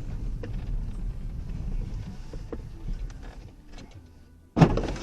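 Low road and engine rumble heard inside a moving car, with a few light knocks, then a single loud bang near the end, typical of a vehicle collision impact.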